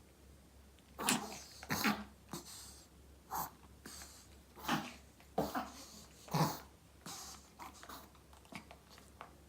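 A Maltese dog in a breathing attack: a run of sharp, noisy breaths, about eight in the first seven seconds at uneven spacing, then fainter ones near the end. The owner takes it for reverse sneezing, with the dog struggling for breath.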